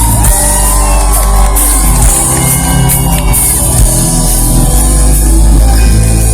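A live rock band playing loudly through a festival PA, with sustained bass notes under guitar and keyboard lines.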